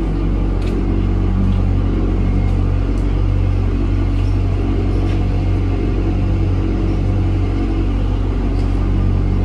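Box truck engine idling steadily, a low, even rumble.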